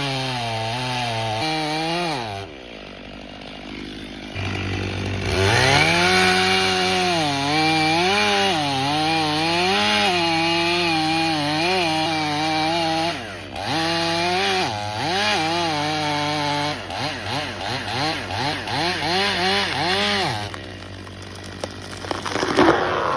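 A two-stroke chainsaw at high revs. Its pitch drops off about two seconds in, then climbs back and sags and recovers as the chain cuts into the wood. Later the throttle is blipped up and down in quick bursts.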